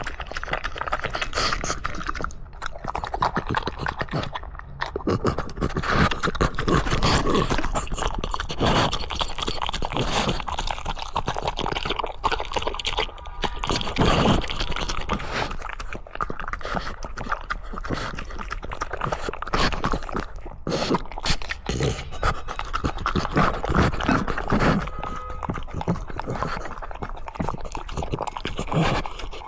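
A dog eating greedily, chewing and crunching its food while making continuous pig-like grunting noises.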